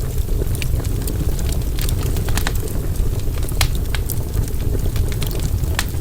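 Wood fire burning with a steady low rumble and irregular sharp crackles and pops, many a second.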